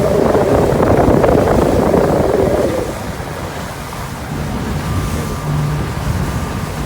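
Motorboat ride: engine running with wind on the microphone and water rushing past the hull. About three seconds in, the engine tone fades and the overall sound drops quieter.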